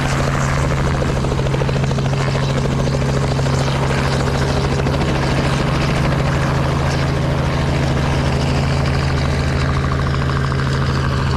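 Helicopter running steadily, its engine and rotor making an even, unbroken drone with a fast beat.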